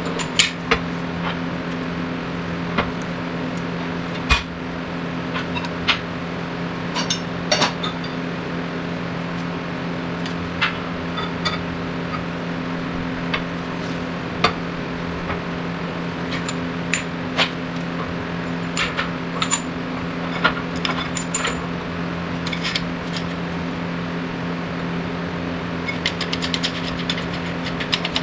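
Workshop sounds while a new front wheel bearing is pressed into the steering knuckle on a shop press. A steady hum runs under scattered metallic clicks and clinks of tools and parts, with a quick run of clicks near the end.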